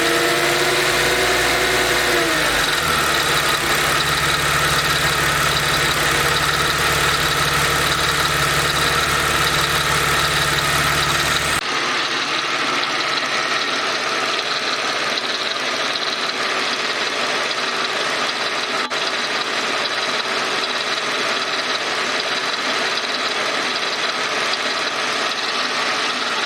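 Mercedes SLK 32 AMG's supercharged 3.2-litre V6 running, its revs falling back to a steady idle about two to three seconds in. About halfway through the sound changes abruptly and loses its deep hum. The owner is chasing a regular 'dadum dadum' rattle that is heard once the engine reaches about 40 °C and quickens with rising revs.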